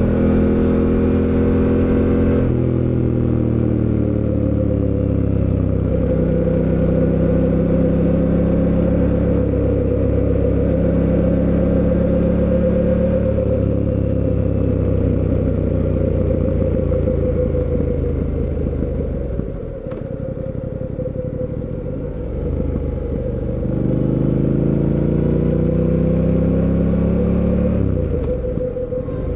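Fantic Caballero 700 Scrambler's 689 cc parallel-twin engine under way, pulling through the gears with short steps in pitch at each shift. Around two-thirds of the way in the engine is eased off and quietens as the bike slows. It then accelerates again, with the pitch rising, and shifts near the end.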